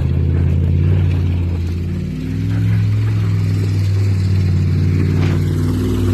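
Dodge Ram 1500 pickup's engine running steadily with a low exhaust note, easing off briefly about two seconds in and then settling at a slightly higher pitch.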